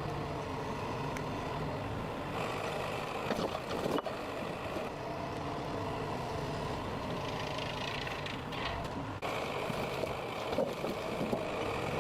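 Heavy forestry machine's engine running steadily, with a few short knocks and clanks.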